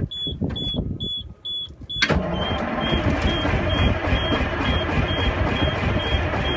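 Detroit diesel truck engine cranking over on its starter in the cold without firing, a cold start attempted without ether. A dash warning buzzer beeps about twice a second throughout; the cranking cuts in suddenly about two seconds in and runs on steadily.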